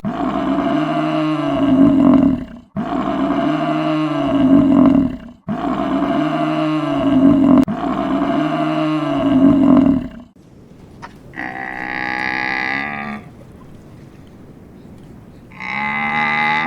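Calls of a large animal: the same low call four times in a row, about two and a half seconds apart, then two shorter, higher-pitched calls after a pause.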